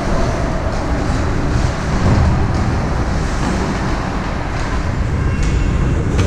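Ice hockey rink game sound: a steady, loud rumble of arena noise, with a few faint sharp clicks near the end.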